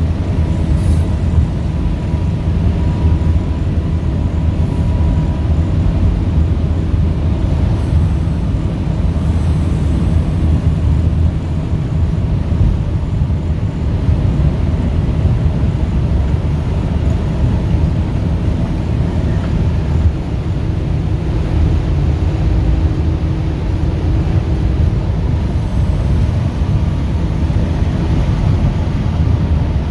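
Heritage diesel locomotive running, a loud, steady, low engine drone.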